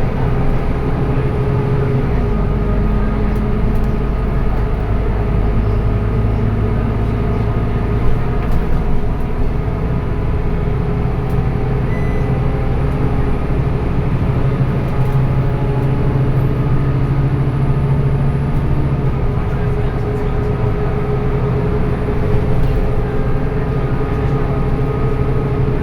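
Scania K230UB city bus's diesel engine pulling under load, its pitch rising slowly and stepping down a few times as the ZF automatic gearbox changes gear.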